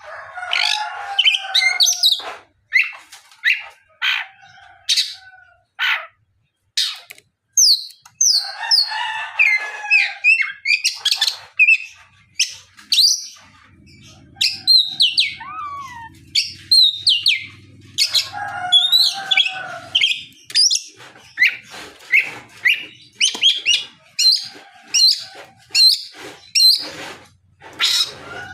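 Oriental magpie-robin (kacer) singing in full, open voice (ngeplong): a long, varied run of sharp whistles, chirps and quick gliding notes in bursts with short pauses between phrases.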